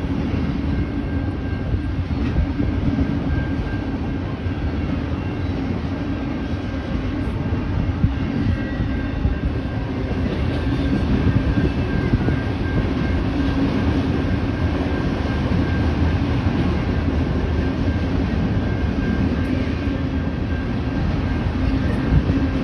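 CSX freight train's autorack cars rolling past, a steady rumble with wheels clacking over the rail joints.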